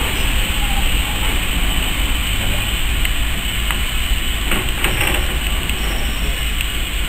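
Railway passenger coaches rolling slowly past on the track, a steady rumble of wheels on rail with a few sharp clicks about four and a half to five seconds in.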